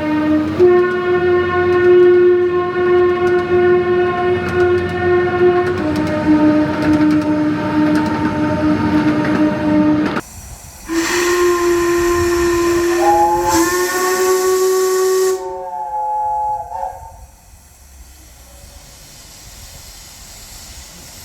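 Narrow-gauge steam locomotive whistles blowing long blasts. One held whistle steps in pitch twice and cuts off about halfway through, then another sounds over loud steam hiss, rising into a chord of several notes before dying away. Faint steam hiss remains near the end.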